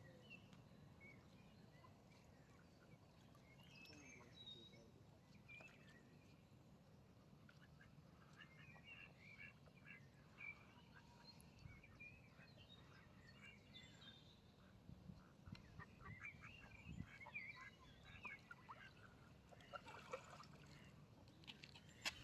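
Ducks calling faintly with soft, quick quacks, the calls growing busier about a third of the way in.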